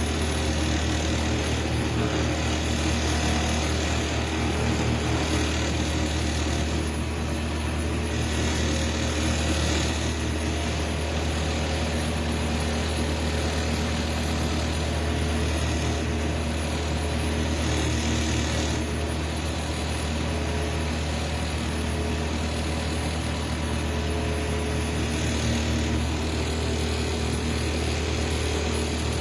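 Wood lathe running with a steady motor hum while a turning tool cuts the spinning wood, the cutting noise swelling and easing a few times.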